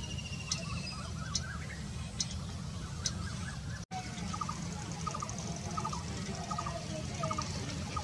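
Short bird calls in quick stuttering groups of a few notes, repeating every half second or so from about halfway through, over a steady low rumble. A few sharp clicks sound in the first half.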